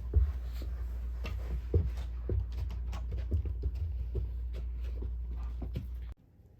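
White Pomeranian licking and grooming itself: irregular small wet clicks and smacks of tongue and mouth, over a steady low hum. The sound cuts off abruptly about six seconds in.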